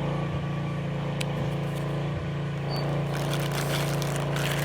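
A steady low mechanical hum throughout. From about three seconds in, plastic MRE accessory packets crinkle as they are handled.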